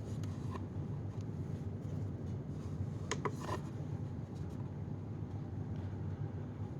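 Light handling sounds, soft rubbing and a few faint clicks, as vacuum debris is sorted out for weighing, over a steady low hum.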